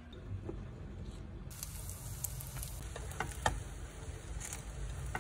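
Egg-coated Korean zucchini slices (aehobak-jeon) sizzling in oil in a frying pan, with scattered pops and crackles. The sizzle comes in about a second and a half in, over a low hum.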